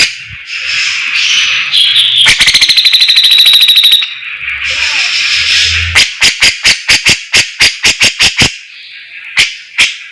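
A songbird singing a varied, chattering song: harsh scratchy phrases, a fast buzzing trill of about twenty notes a second from about two seconds in, then a run of sharp clicking notes about five a second, played as a masteran recording for caged birds to learn.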